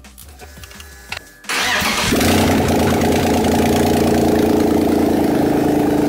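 BMW M54B30 3.0-litre straight-six, swapped into a Volvo 940, starting for the first time. About a second and a half in it fires almost at once with barely any cranking, then settles into a steady idle.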